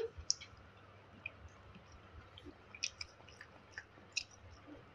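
Faint chewing and mouth sounds of someone eating, heard as scattered small clicks and smacks.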